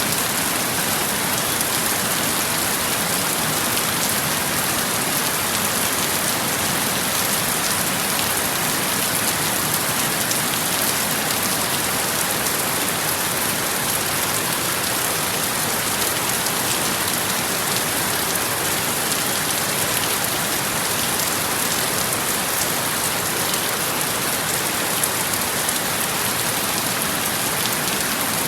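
Steady rainfall: a continuous, even hiss of many drops pattering on a surface, with no change in strength.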